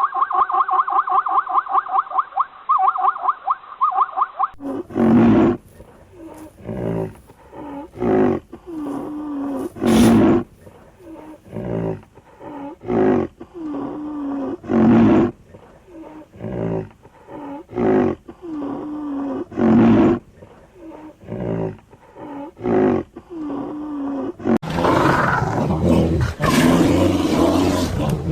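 Recorded wild animal calls: a rapid squeaky chattering at first, then, from about four and a half seconds in, a long series of deep calls repeated about once a second. Near the end a different, noisier recording of animal calls begins.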